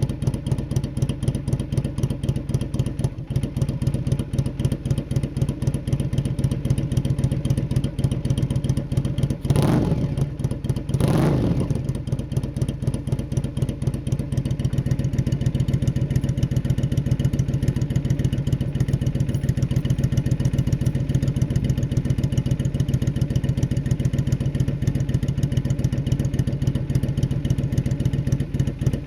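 Yamaha Drag Star Classic 400's V-twin running through a Gordon Fish aftermarket muffler, fed by an SU carburettor, idling with a steady pulsing beat. It gets two quick throttle blips about ten seconds in, then settles back to idle. The fuel mixture is set too lean, as the owner judges it.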